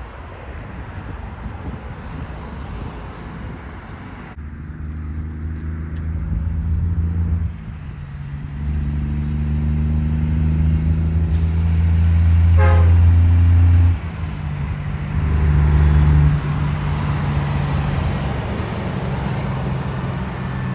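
Locomotive horn sounding four blasts, long, long, short, long, with the last one quieter: the pattern of the grade-crossing signal. A steady rumble from the passing train runs beneath it.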